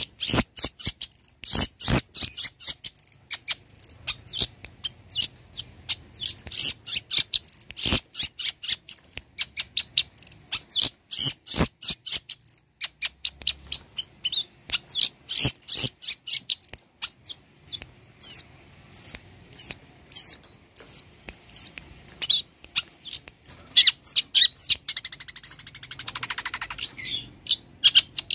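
Long-tailed shrike (cendet) singing a fast, varied song of sharp high chirps and clicking notes, a mimic's medley, with a rapid buzzing trill near the end.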